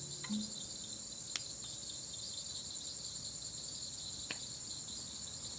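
Crickets chirring steadily at night in a high, continuous drone, with a couple of faint clicks about one and a half and four seconds in.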